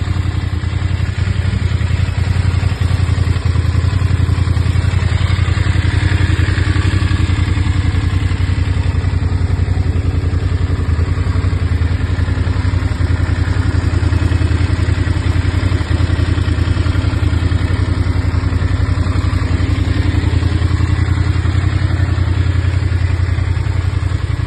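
Voge 900DSX motorcycle's parallel-twin engine idling steadily.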